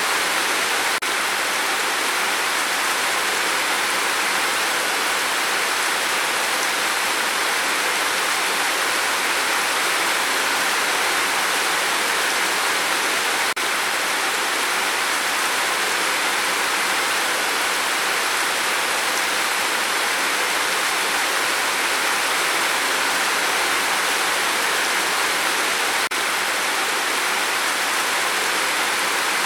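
Steady rain falling: an even, unbroken hiss with no separate drops standing out.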